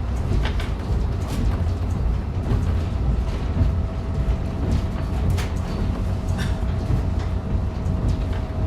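Running sound of a diesel railcar heard from inside the cabin: a steady low rumble of engine and wheels on rail, with scattered clicks from the track. A steady whine comes in about three seconds in and holds.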